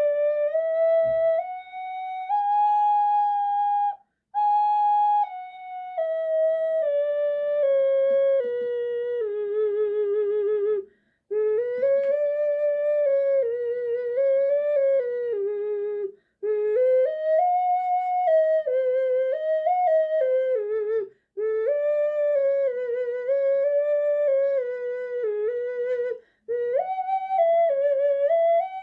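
Bird-shaped ocarina in a diatonic scale, played note by note up the scale and back down, then in short melodic phrases. The tone is pure and flute-like, with a wavering vibrato on some notes and brief breaks every few seconds.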